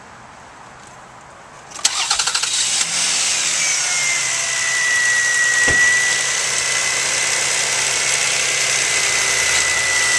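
A 2001 Toyota Camry's 3.0-litre V6 cranked by the starter for about a second before it catches, then idling steadily: its first start after an oil change. A high whine over the idle slides slightly down in pitch and holds, with a single click about midway.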